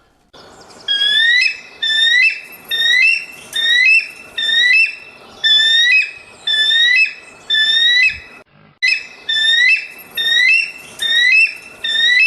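An animal calling: a run of short, rising whistled squeals, about two a second, with a brief break a little past the middle.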